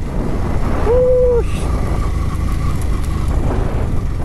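Yamaha motorcycle engine running at low speed over a dirt hill trail, a steady low rumble throughout. A short single pitched tone lasting about half a second sounds about a second in.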